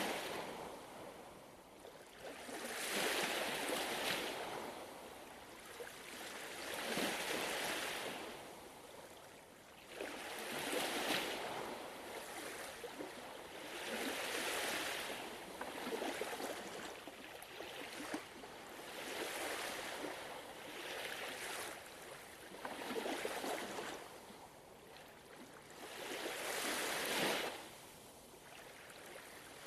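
Gentle ocean waves washing in and drawing back, each wash swelling and fading every three to four seconds.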